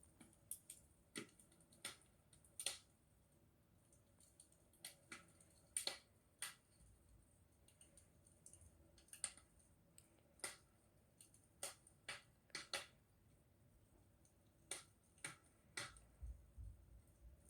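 Faint campfire crackling: burning wood giving off irregular, isolated sharp pops and snaps, about one or two a second.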